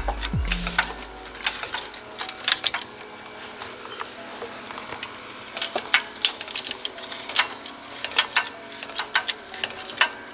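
A jack being pumped to lift a pickup truck by its frame: irregular metallic clicks and clanks from the jack's handle and mechanism.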